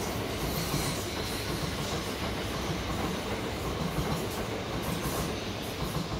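Southeastern electric multiple-unit passenger train passing through the platform at speed, with a loud, steady noise of wheels running on the rails.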